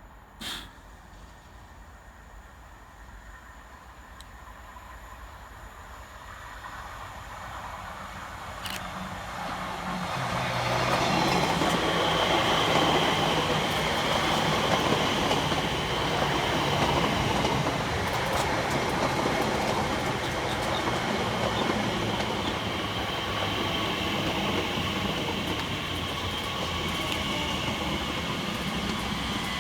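Class 345 Elizabeth line electric multiple unit approaching and running into the platform. Its noise builds over several seconds, then holds loud with a steady high whine. A brief sharp sound comes just after the start.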